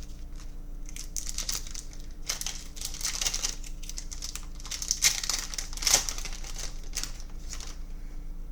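Crinkly plastic trading-card pack wrapper being torn open and handled: irregular crackling over several seconds, loudest twice about five and six seconds in.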